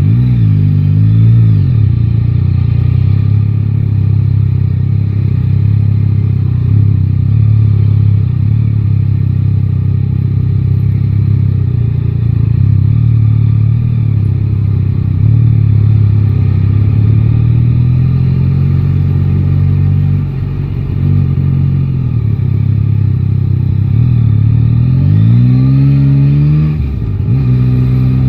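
Yamaha Tracer 9 GT's three-cylinder engine on the move: revs climb at the start, then it runs steadily at cruising speed, and near the end revs climb again and drop at a gear change.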